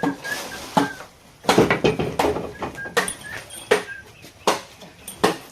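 Hammer knocking nails into wood: about ten sharp, irregular strikes, some in quick pairs. A few short, high chirps sound between them.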